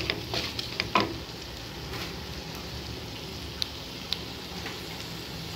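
Onion, tomato and dried red chilli frying in sesame oil in a nonstick pan: a steady sizzle, with a spatula scraping and clicking against the pan in the first second and a couple of faint ticks later. The tomatoes are being cooked down until soft.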